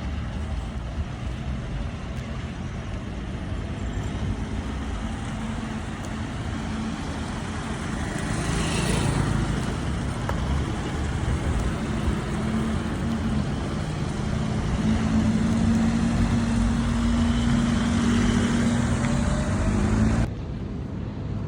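Car engines running amid traffic noise, with a steady engine note growing louder through the second half. The sound changes abruptly near the end.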